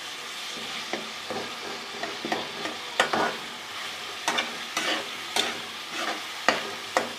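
Beef mince frying in oil in a pan with a steady sizzle, as it is browned until it loses its pinkness. A spoon stirs it, scraping and knocking against the pan every second or so at an uneven pace.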